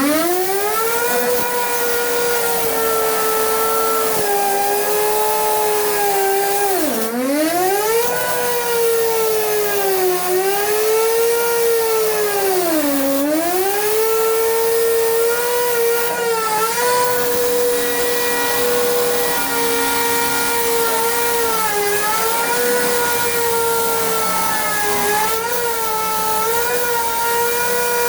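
A high-speed power cutting tool running and cutting, its motor whine sagging in pitch each time it bogs down under load and then climbing back; the deepest dips come about seven seconds in and again about thirteen seconds in.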